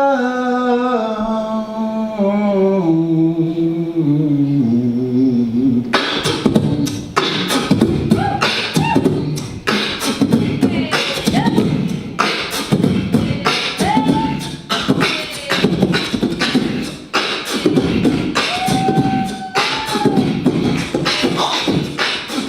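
A solo voice sings a slow phrase stepping down in pitch on the word "together". About six seconds in it breaks into fast beatboxing: rapid mouth-made kicks, snares and clicks, with short sung tones mixed in now and then.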